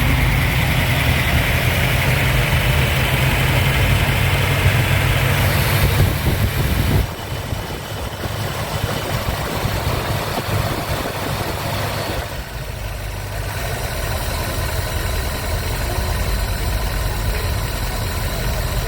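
A car engine idling with a steady low rumble; it drops slightly in loudness about seven seconds in.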